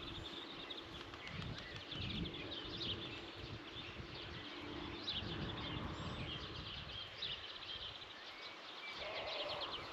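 Small birds chirping and calling throughout, over a low, uneven rumble of wind on the microphone.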